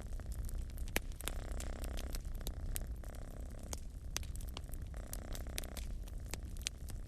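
A cat purring in slow rhythmic cycles, swelling about every two seconds over a low rumble, with a wood fire crackling and popping in sharp snaps throughout.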